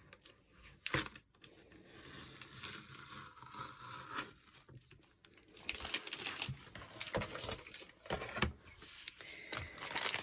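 FrogTape Delicate Surfaces painter's tape being peeled off watercolour paper along the border, a crackling, tearing sound in uneven stretches with a few sharper snaps.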